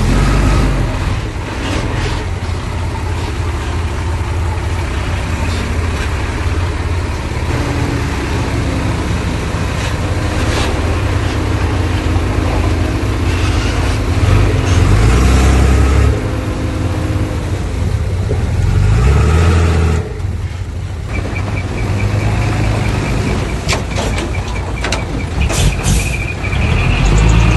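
Diesel engines of heavy earthmoving machinery running under load, with scattered metallic clanks. A high, rapidly pulsing squeal joins about 21 seconds in.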